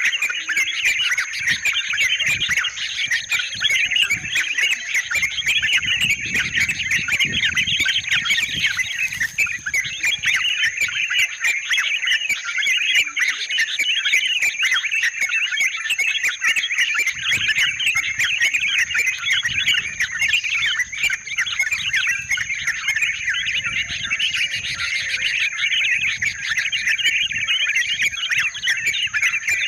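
Yellow-vented bulbuls chattering without pause, many quick calls overlapping into a dense chorus.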